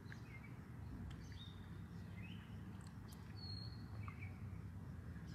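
Faint, scattered bird chirps, a handful of short notes with one clearer whistle about three and a half seconds in, over a low steady background rumble.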